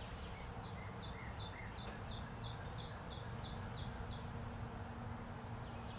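A bird singing a run of about ten short, high chirps at roughly three a second, over faint background noise and a low steady hum.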